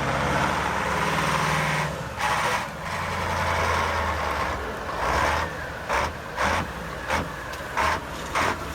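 A truck's engine running, and from about halfway through, a string of short, sharp bursts of noise, about one every half second to second.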